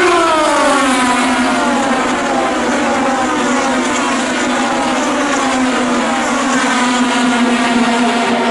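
IndyCar race cars' 2.2-litre twin-turbo V6 engines at racing speed. The engine note falls steeply in pitch just after the start, then runs on at a steady pitch.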